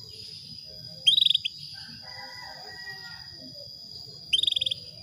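Female canary giving two short, rapid chirping trills about three seconds apart: a female in breeding condition calling to a male. A steady high-pitched tone runs underneath.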